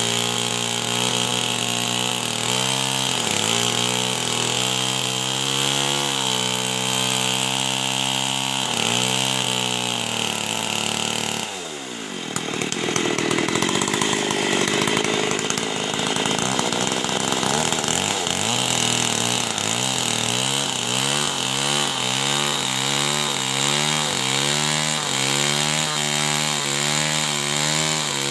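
Two-stroke chainsaw running at high revs and cutting wood. About halfway through the engine pitch drops steeply as the bar bites, then it saws on with the revs rising and falling about once a second under load.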